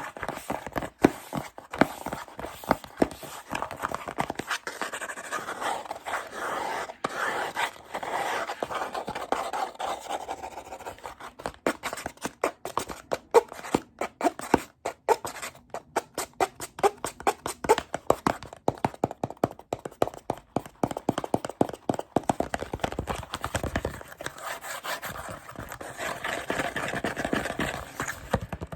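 Fast, irregular tapping, scratching and clicking on plastic and cardboard items, many sharp taps close together with stretches of scratchy rubbing between them.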